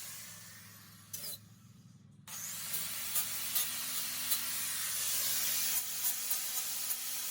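Stick arc welding with a small IGBT inverter welder: the crackling hiss of the arc dies away about a second in. After a short pause it strikes again and runs on, with sharp crackles over a low steady hum.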